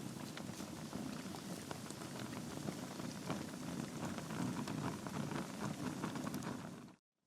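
Wood fire burning in a fireplace: dense, irregular crackling and popping of the logs over a steady low rush of flame. The sound cuts off suddenly near the end.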